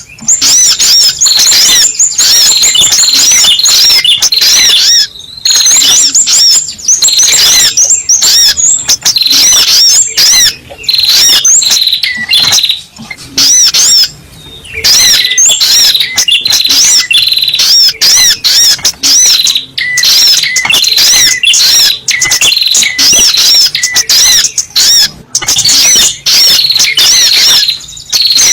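Little spiderhunter (sogok ontong) calling: a rapid, continuous run of sharp, high chirps, broken only by a few short pauses.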